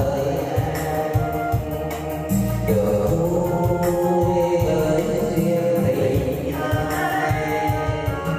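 A song: a singing voice with instrumental accompaniment.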